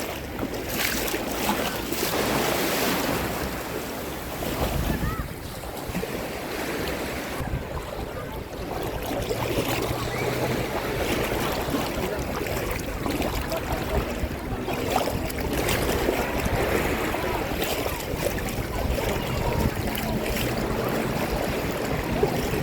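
Sea waves washing in and out at the shore in a continuous, gently swelling wash, with wind buffeting the microphone.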